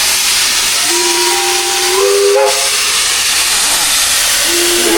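Steam locomotive venting steam: a loud, steady hiss, with short steady tones over it about a second in and again near the end.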